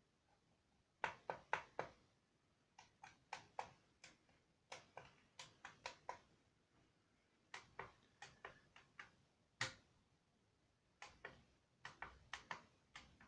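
Sharp small clicks in quick clusters of three to six, with short pauses between the clusters.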